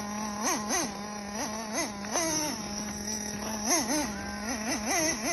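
Traxxas T-Maxx's 2.5 nitro engine idling with a steady buzz while the throttle is blipped about ten times, each blip a quick rise in pitch that drops straight back to idle.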